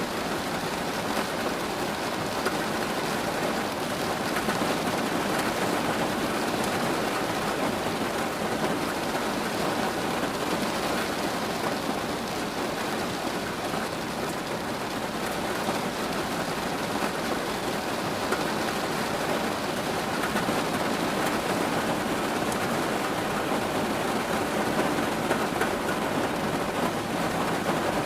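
Steady, heavy rain falling, with individual drops ticking on a hard surface.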